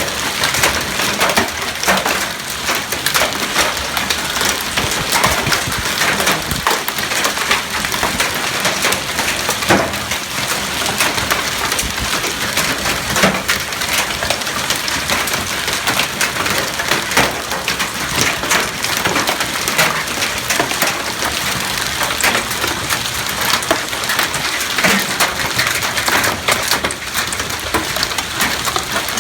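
Hail pelting down in a heavy storm: a dense, steady clatter of many sharp hailstone impacts over the hiss of rain.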